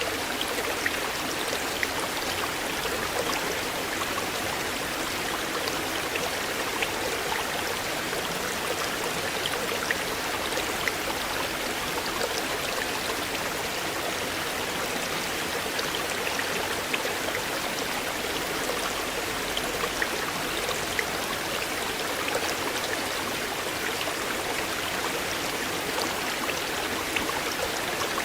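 River water flowing steadily: a continuous rushing babble with small splashes and drips now and then.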